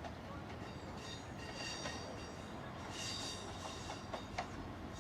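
A train running through the station with a steady low rumble and scattered wheel clicks, plus brief high-pitched wheel squeals about a second in and again around three seconds.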